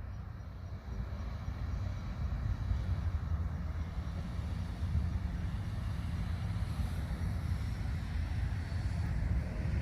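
A steady, deep rumble with a faint hiss above it, unchanging throughout.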